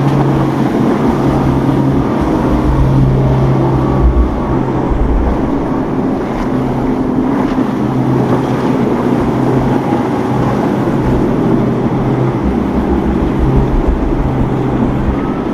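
Motorboat engines running steadily, with wind buffeting the microphone.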